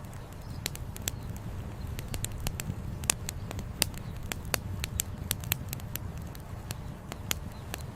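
Wood fire crackling, with irregular sharp pops several times a second, over the steady low rush of a flowing river.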